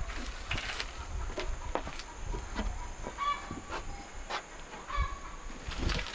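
Chickens clucking in short calls, mixed with scattered short knocks and clicks.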